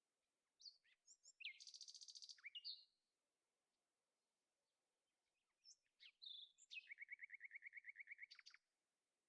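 A songbird singing two phrases a few seconds apart. Each opens with short sweeping notes and ends in a rapid trill of repeated notes, the second trill lower in pitch.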